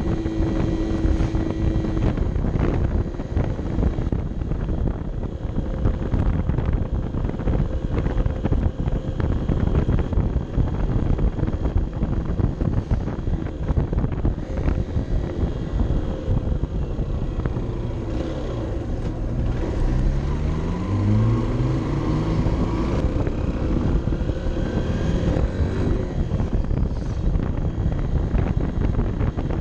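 Honda CB 125 F's small single-cylinder four-stroke engine running while riding, heard with heavy wind rush on the bike-mounted microphone. The engine speeds up about eighteen seconds in, its pitch rising for several seconds.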